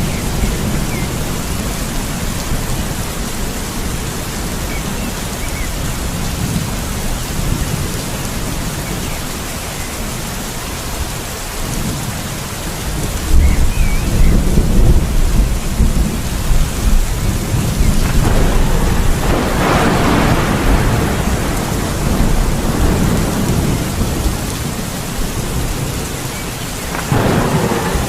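Steady rain with thunder: a deep rumble swells in about halfway through and rolls on, and the rain hisses louder in surges about two-thirds of the way through and again near the end.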